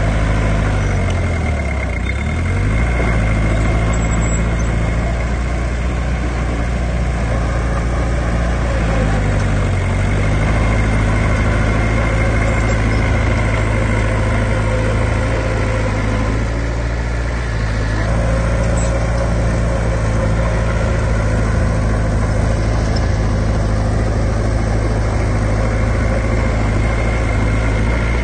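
Heavy diesel engine of earthmoving machinery running steadily and loud. Its pitch dips briefly twice, once near the start and once about ten seconds in, as it lugs under load.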